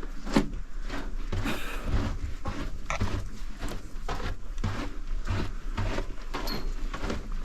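Footsteps walking through a tunnel, about two steps a second, over a low steady hum.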